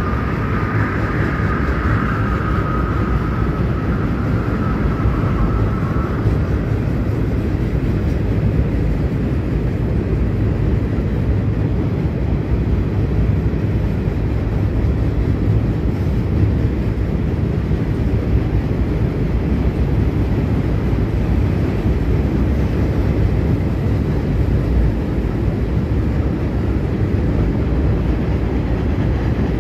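Steady, loud rumble of a Norfolk Southern freight train's covered hopper cars rolling across a steel trestle. A thin high whine in the first six seconds or so fades out.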